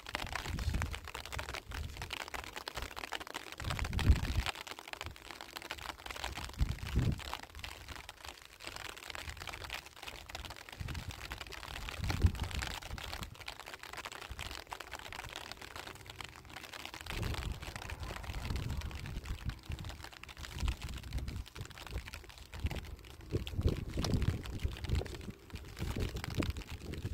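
A shovel scraping and digging into dry, stony soil, with loose earth and gravel crunching and trickling, irregular clicks and scrapes throughout, and low thumps that come heavier from about 17 seconds in.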